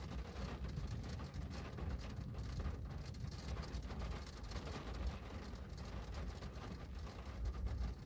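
Steady rain pattering on window glass, with many small drop ticks over a continuous low rumble.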